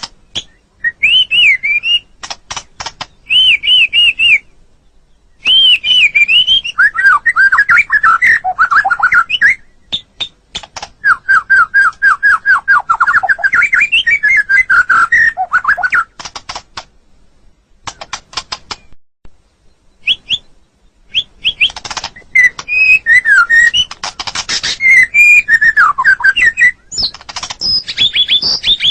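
White-rumped shama (murai batu) singing a varied song of rich whistled phrases and bending notes, broken by runs of rapid dry clicks. There is a short pause about four seconds in and a longer lull in the middle, filled only by brief click runs.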